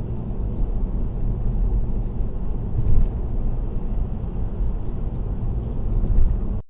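Car driving at expressway speed: steady low rumble of road and tyre noise with faint light ticks throughout. The sound cuts off abruptly at the very end.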